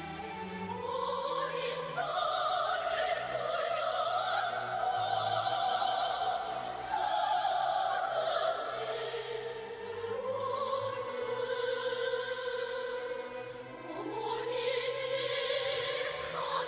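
Orchestral music with long held, slowly rising and falling melody lines, in an operatic style, with some singing.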